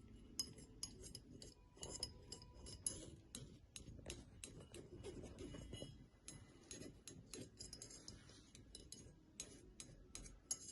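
Faint, irregular clicks and light scrapes of a screwdriver working against a clutch piston as a rubber seal is eased round into its groove.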